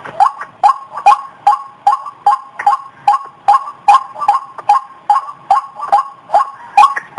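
White-breasted waterhen calling: a fast, unbroken string of short, loud notes, about two and a half to three a second, held at an even pitch.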